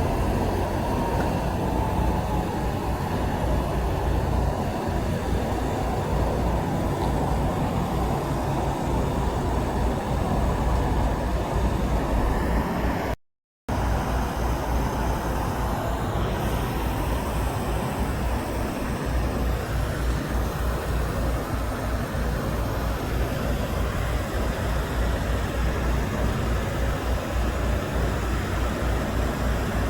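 Steady road traffic noise: vehicle engines and tyres with a strong low rumble, no horn sounding. The sound cuts out completely for a moment a little under halfway through.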